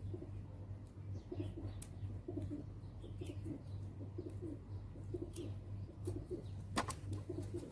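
A dove cooing over and over, short paired notes about once a second, over a steady low hum. A sharp click comes near the end.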